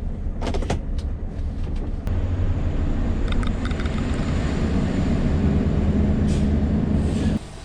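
Scania V8 truck engine running while the truck drives, with a few light clicks in the first second. The engine gets louder from about two seconds in, then drops away sharply near the end as the driver comes off the throttle.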